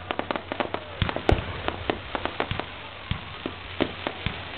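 Fireworks crackling: a dense, irregular run of sharp little pops from crackling stars bursting overhead.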